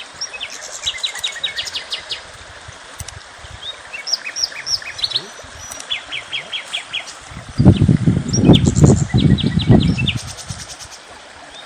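Small birds chirping, with quick high notes and rapid trilled series coming again and again. From about two thirds of the way in, a loud low rumble lasts for a few seconds, like wind buffeting the microphone.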